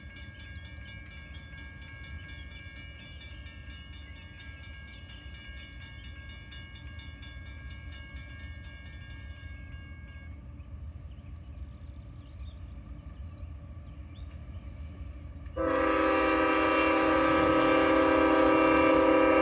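Low rumble of an approaching freight train with a fast-repeating ringing that stops about ten seconds in. About fifteen seconds in, the lead locomotive's air horn starts sounding a loud, steady multi-note chord that holds to the end.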